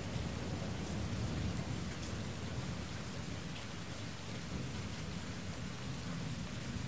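Steady rainfall with a low rumble of thunder underneath, slowly fading: a rain-and-thunder ambience track.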